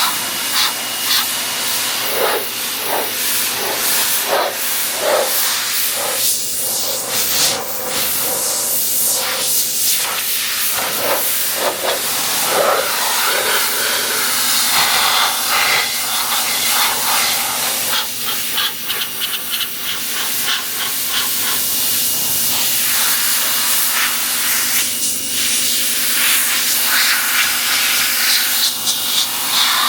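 Pressure washer jet spraying onto a car body: a loud, continuous hiss whose tone keeps shifting as the spray moves across different surfaces, with a faint steady hum underneath.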